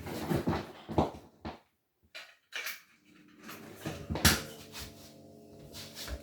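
Knocks and clicks of handling, then a Snaige refrigerator's compressor starting about three seconds in and running with a steady hum, with a sharp click a second later.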